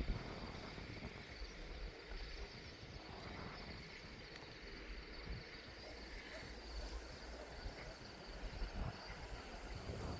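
Wind gusting against the microphone, a low uneven rumble that rises and falls, over a faint steady high chirring of insects.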